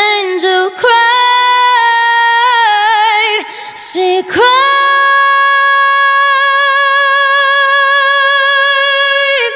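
A woman singing a cappella, with no instruments: quick wordless runs first, then, about halfway through, a single long held note that dips slightly as it ends near the close.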